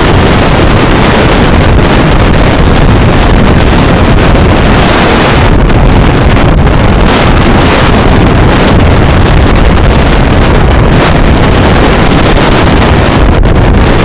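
Strong wind blasting across the microphone: a loud, steady roar of wind noise that fills the recording.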